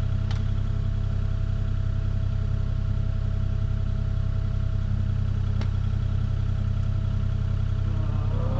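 Engine running at a steady speed, a low even drone, with two faint clicks.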